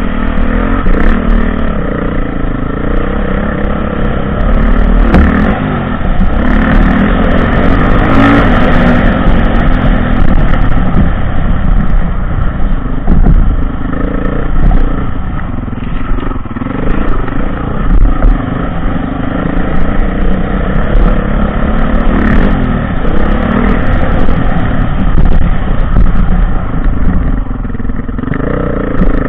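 Dirt bike engine revving up and down over and over as it rides, with scattered short knocks and clatter.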